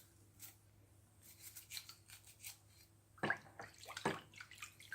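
Small metal revolver parts being scrubbed and handled: light, irregular brushing and rubbing strokes, with two sharper clicks about three and four seconds in.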